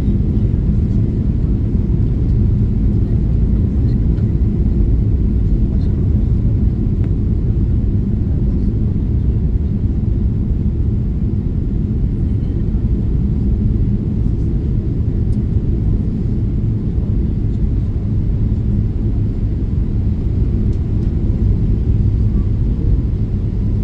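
Boeing 777-300ER cabin noise on the landing approach: a loud, steady low rumble of the engines and airflow, unchanging throughout.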